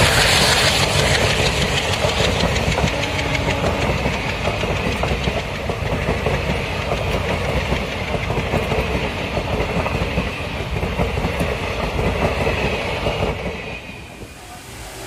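Passenger coaches of an express train passing at speed close by, wheels clattering over the rail joints with a steady rumble and rattle. The sound falls away suddenly near the end.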